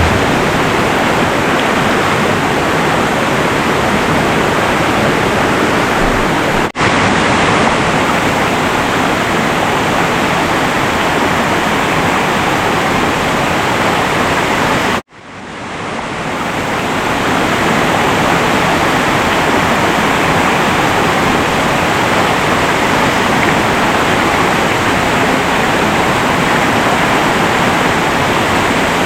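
Loud, steady rush of a mountain stream running high. The sound cuts out for an instant about seven seconds in, and drops out again about halfway through before fading back in.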